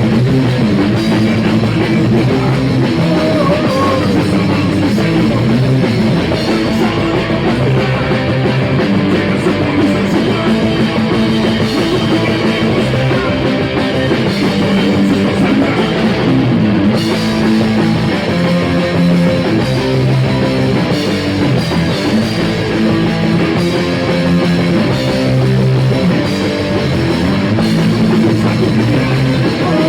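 Rock band playing a song with drum kit and guitar, loud and continuous.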